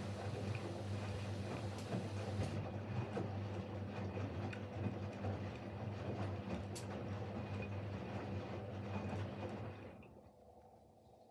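Siemens Siwamat Plus 574 front-loading washing machine turning its drum in the fourth rinse with fabric softener: a steady low motor hum with rough tumbling noise and small clicks. The drum motor stops near the end and the sound drops off sharply.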